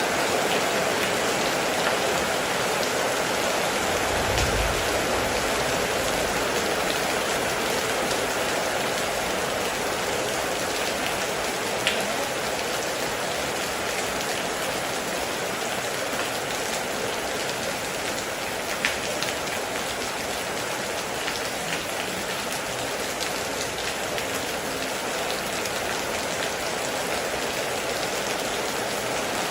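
Heavy rain falling steadily on a metal roof, with a few louder single drops standing out. A brief low rumble sounds about four seconds in.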